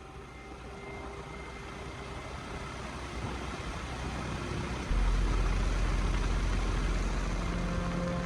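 Motorcycle running and getting under way, its engine and rushing noise building steadily, then jumping to a louder, steady low drone about five seconds in.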